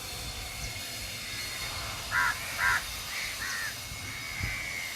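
A bird calling, crow-like: four short calls, a pair about two seconds in and another pair a second later, over steady low wind noise.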